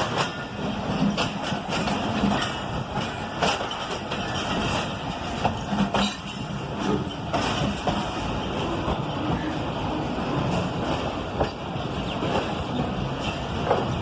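Passenger train running on the rails: a steady rumble with frequent, irregular clacks of the wheels over rail joints and points.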